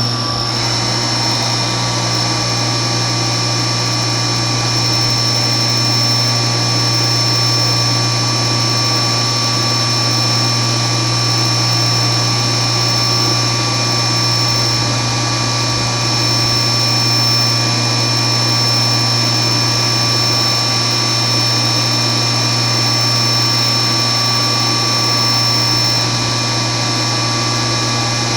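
CNC milling machine spindle running at a steady high speed with a high-pitched whine over a low hum.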